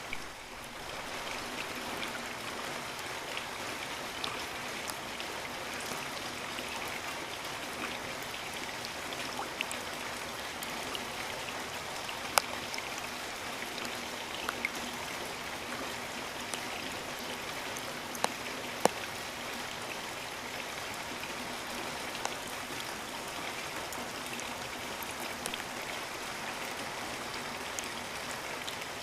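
Steady rainfall, an even hiss with scattered sharper drops landing close by, a few of them standing out louder. The sound dips briefly right at the start.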